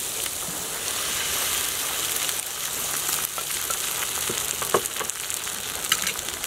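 Beaten egg, onion and mushroom sizzling steadily in an oiled frying pan on a portable gas stove as the egg goes in for an omelette, with a couple of light knocks near the end.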